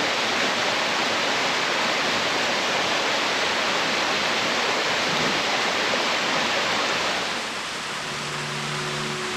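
A waterfall's steady rush of falling water. Near the end the water sound drops back and background music with held notes comes in.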